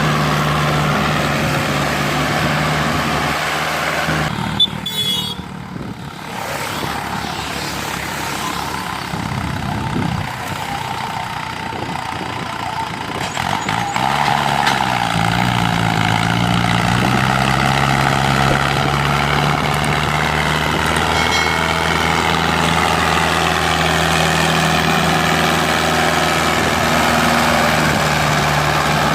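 Diesel tractor engine running under load while pulling a fully loaded sugarcane trolley. The engine goes quieter briefly about four seconds in, with one sharp knock, then its pitch wavers and shifts about fourteen seconds in before settling steady.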